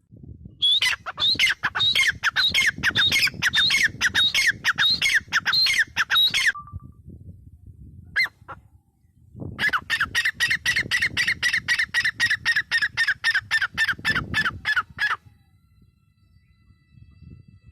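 Gray francolin calling: a long run of rapid, harsh notes at about four to five a second, each note falling in pitch. After a short pause comes a second run with steadier, flatter notes.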